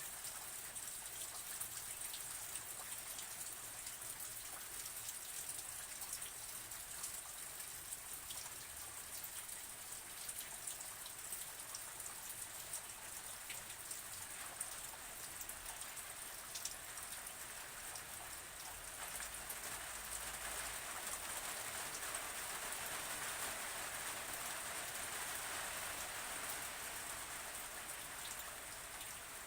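Steady rain falling, a continuous hiss with many individual drops ticking through it. It grows slightly louder about two-thirds of the way through, then eases back.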